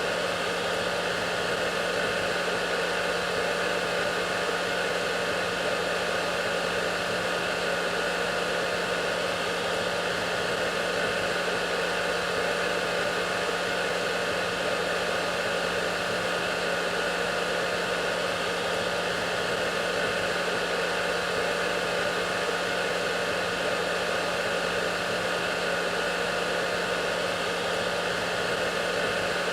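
Hair dryer running continuously at a constant setting: a steady rushing hiss of blown air with a low motor hum and a faint whine on top.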